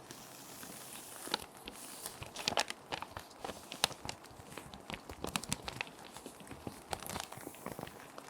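Plastic sheet protectors crinkling and rustling as they are handled, with many sharp, irregular crackles, over a steady hiss of background rain.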